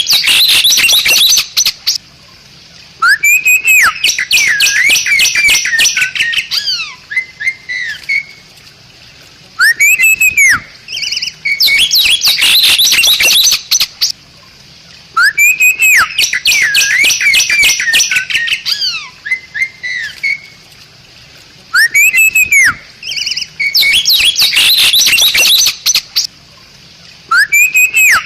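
Bali myna singing: loud phrases of arching whistles and rapid harsh chattering notes, repeated about every six seconds with short pauses between.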